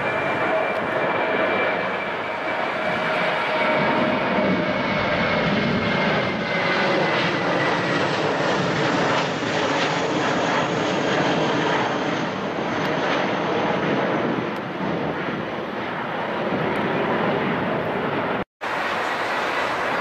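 Airplane engines running loud and steady during a takeoff, with a whine that slowly falls in pitch as the aircraft passes. The sound cuts out abruptly for a moment near the end, then carries on.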